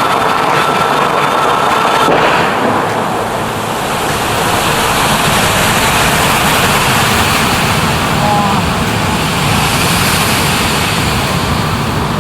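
Steady rush of spraying and falling fountain water, filling out about two seconds in, with the murmur of a crowd of onlookers.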